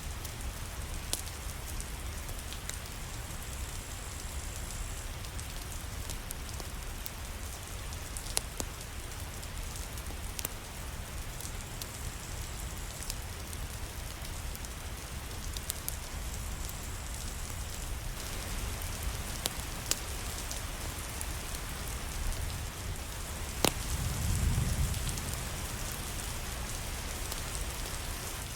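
Steady rain falling, with scattered sharp crackles and pops from a wood fire. A brief low rumble comes near the end.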